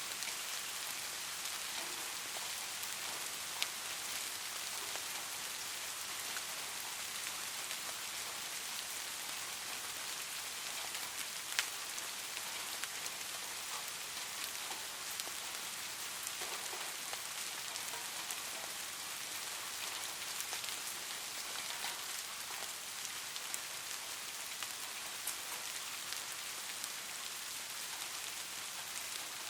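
Light rain falling steadily: an even, high hiss with scattered sharper drop ticks on top.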